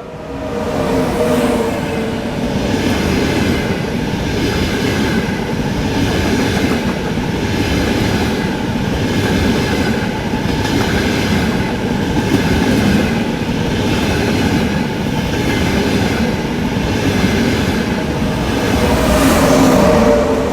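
Frecciarossa high-speed train passing through a station at speed: a loud, steady rush of wheel and air noise with a regular pulse a little over once a second as the carriages go by.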